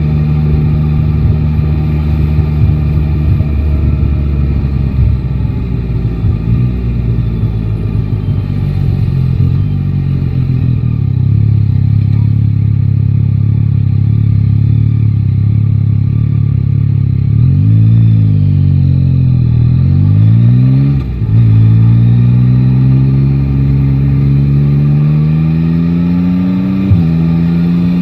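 Yamaha Tracer 9 GT's inline-three engine running under way at a steady speed. About two-thirds of the way through, the revs dip and rise a couple of times and briefly cut out as it changes gear. It then accelerates with a rising engine note, with another gear change near the end.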